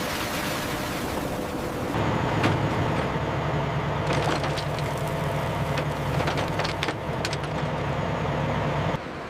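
An even hiss, then from about two seconds in machinery running with a steady low hum, broken by scattered sharp metallic clicks and knocks. It cuts off suddenly near the end.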